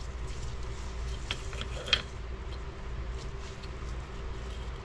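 A few light clicks and taps of transfer-case parts being handled and test-fitted, over a steady low hum in the room.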